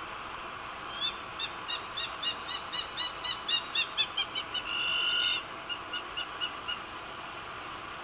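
A bird calling: a run of short high whistled notes, about three or four a second and growing louder, then one longer held note, then a few fainter short notes, over a steady background hiss.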